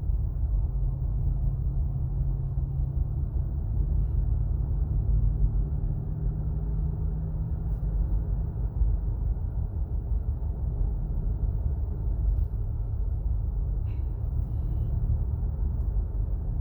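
Road rumble from a 2017 Acura MDX FWD on the move, with a low hum over it that fades out about halfway. This is the whining noise that grows with road speed, which the owner places probably at the front passenger side and which was still there after a few PSI were let out of each tire.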